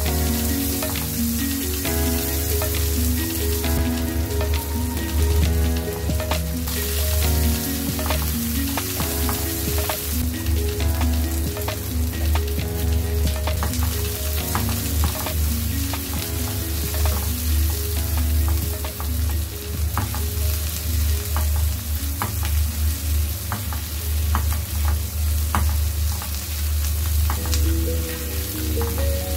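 Onion, garlic and green chillies sizzling as they fry in mustard oil in a pan, with a spatula stirring and scraping them in short, repeated clicks.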